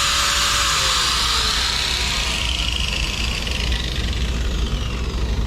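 Electric grinder sharpening a steel lawn mower blade with a steady grinding hiss. About a second in the motor's whine starts to fall as it winds down, and the grinding hiss fades away near the end.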